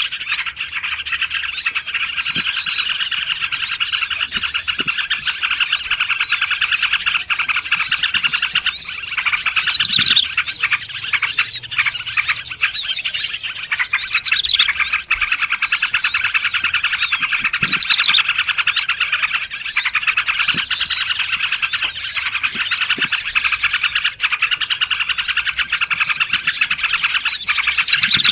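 Dense chorus of small songbirds chirping and trilling over one another without pause. It is a bird-trapping lure recording mixing the calls of trucukan (yellow-vented bulbul), prenjak meong, female sirtu and sogon.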